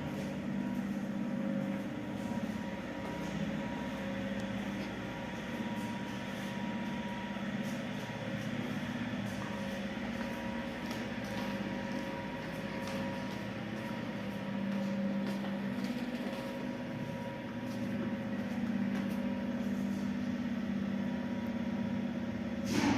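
A 1983 SamLZ passenger lift running in its shaft: a steady mechanical hum with a few held tones. A sharp, loud knock comes right at the end.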